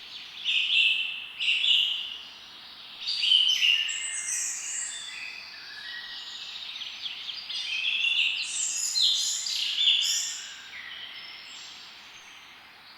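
Several songbirds chirping and singing at once, with rapid overlapping trills and tweets over a steady background hiss.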